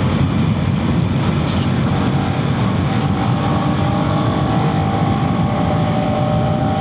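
KTM Duke 250 single-cylinder engine pulling hard at speed, heard through a helmet-mounted mic with heavy wind blast over it. A steady engine tone comes through from about halfway in.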